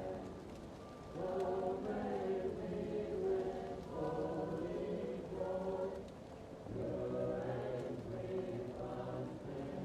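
A choir singing slow sustained chords, muffled as if heard from another room, in phrases with brief breaks about a second in and about six seconds in. A faint fireplace crackle ticks underneath.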